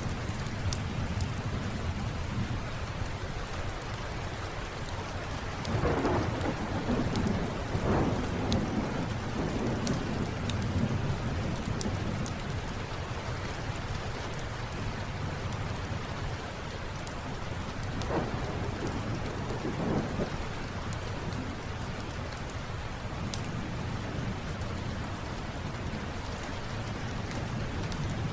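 Steady rain with thunder rumbling twice: a longer roll about six seconds in and another around eighteen to twenty seconds in. Sharp crackles of a wood fire are scattered throughout.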